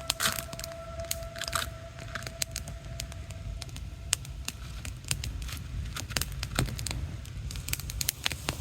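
Campfire crackling, with irregular sharp pops and snaps throughout. A steady thin whistling tone sounds over the first four seconds or so, then fades.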